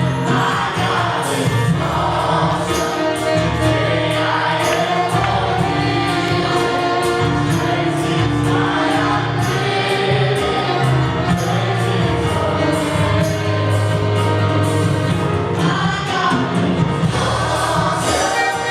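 Gospel-style worship song: a choir singing over a band with steady bass and a regular drum beat.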